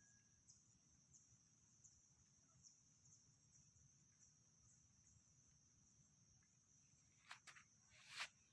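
Faint, steady high-pitched insect chorus, crickets or similar, pulsing about twice a second. Near the end come three sharp clicks or knocks, the last the loudest.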